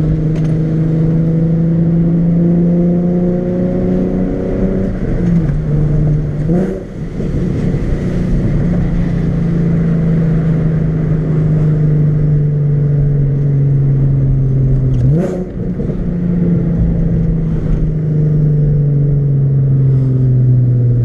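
Nissan 370Z's 3.7-litre V6 running under way in a manual car. Its note slowly sinks in pitch and twice, about a third and three quarters of the way through, dips briefly and then jumps sharply back up, as in a gear change.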